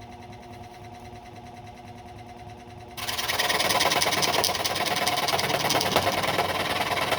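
Wen 3921 variable-speed scroll saw running with a steady hum, then about three seconds in it turns much louder and harsher with a fast rapid chatter as the reciprocating blade cuts into plywood.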